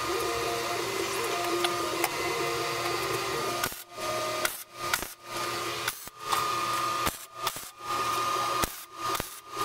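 MIG welder tacking steel plate: a steady buzzing crackle of the arc, which about a third of the way in starts cutting off and restarting in short runs, one tack after another.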